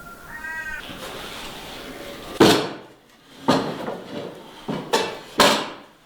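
A cat meowing: a short call near the start, then four loud meows in quick succession in the second half.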